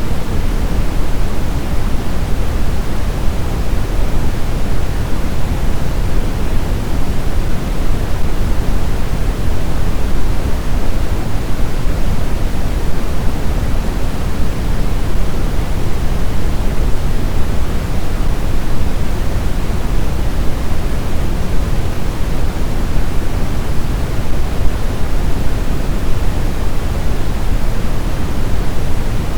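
Blizzard wind blowing as a steady, dense rush of noise, heaviest in the low end, with no gusts, lulls or whistling tones.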